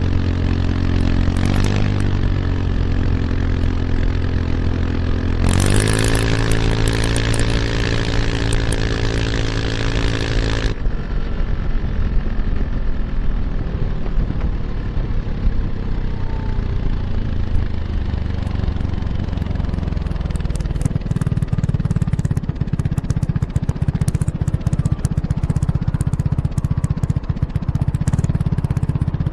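Kymco X-Town scooter's single-cylinder engine running through an Arrow Urban slip-on exhaust with its dB killer fitted, heard close to the exhaust while riding. The engine pulls harder about five seconds in and holds higher revs. About eleven seconds in the throttle is closed and the sound drops to a lower, rougher note, and a low rumble takes over near the end.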